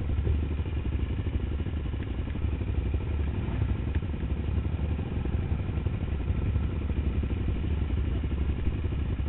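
Dirt bike engine running steadily, with no revving, while a bike is towed up a muddy trail on a rope.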